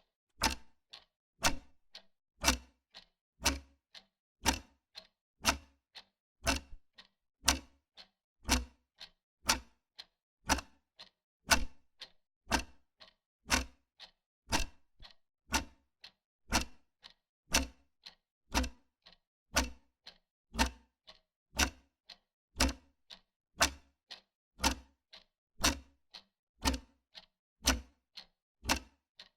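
Wall clock ticking steadily, about two ticks a second, alternating louder and softer like a tick-tock.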